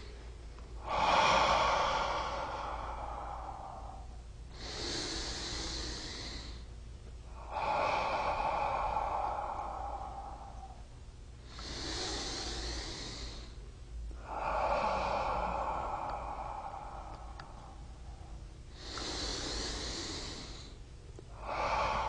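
Slow, deep breathing in through the nose and out through the mouth: a short hissy inhale followed by a longer, lower exhale that fades away, about three full breaths.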